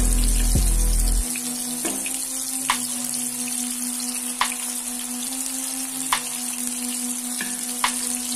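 Tomato rings filled with egg and chopped vegetables frying in oil in a nonstick pan: a steady sizzle broken by a few sharp pops of spitting oil. Background music with low notes that drop out about a second in, leaving a held tone.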